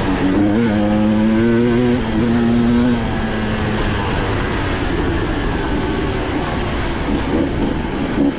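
Dirt bike engine revving under load: its pitch steps up about half a second in and holds steady until about three seconds, then turns to a rougher, uneven drone.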